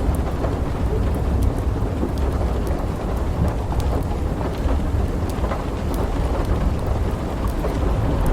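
Steady rain with a continuous low rolling rumble of thunder, and scattered faint sharp clicks through it.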